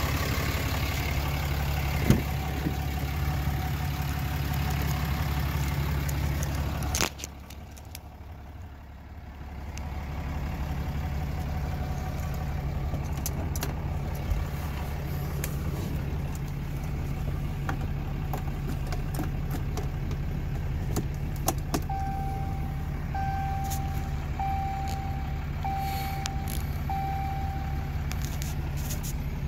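2017 Ram 3500's 6.7 Cummins turbo diesel idling with a steady low hum. About seven seconds in a sharp click is followed by about three quieter seconds before the steady running comes back. Later the truck's chime beeps five times, evenly spaced.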